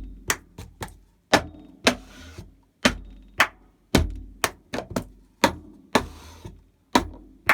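Cup-song rhythm played at normal tempo: slaps on a tabletop, hand claps, and a cup grabbed, struck against the palm and set back down, about three to four sharp hits a second. Twice, about two seconds in and near six seconds, a short scrape as the cup is slid across the table.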